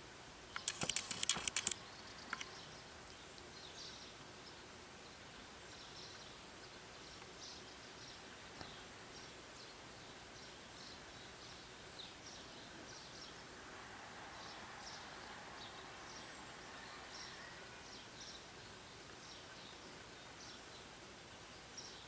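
Faint, short bird chirps repeating in the background. About a second in there is a loud burst of rapid clicking that lasts about a second.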